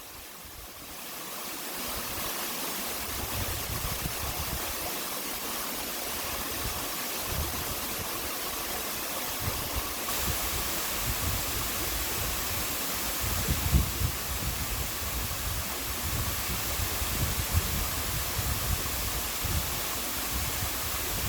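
A large waterfall pouring: a steady rush of falling water that swells over the first two seconds and then holds, with irregular low rumbling underneath.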